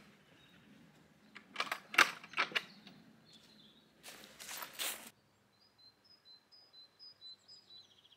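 A few sharp clicks and knocks, then a short rustle, followed by a small songbird singing a quick run of short high notes that step down in pitch near the end.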